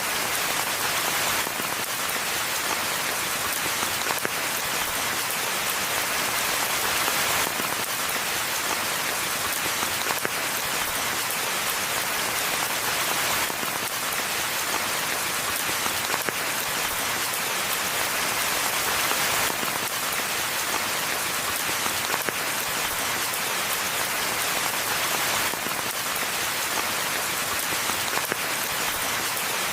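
Steady rain falling on the forest floor and foliage, an even patter of drops.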